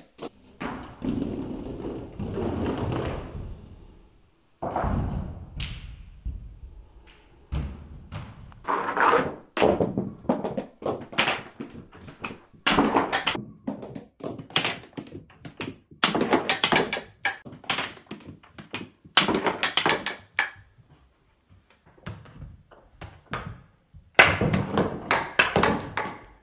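Marbles rolling down a cardboard and carpeted-stair marble run, with many thunks and taps as they drop off the steps and knock against the book and DVD-case walls.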